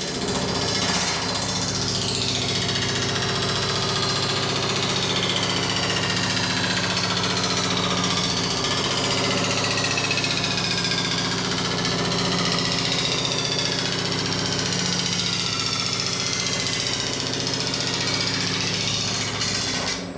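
A reciprocating sheet-metal shaping machine runs steadily, rapidly hammering a steel panel. A constant motor hum sits underneath, and the ringing of the sheet rises and falls in pitch as the panel is worked.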